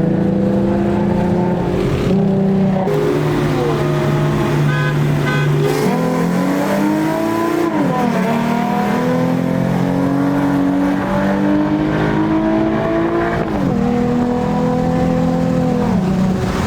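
Car engine running while driving, holding a steady pitch under throttle. The pitch dips and steps down a few times, like lifting off and shifting gears.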